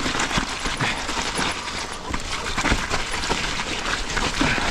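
Mountain bike riding down a muddy trail: tyre noise with many short knocks and rattles from the bike over bumps.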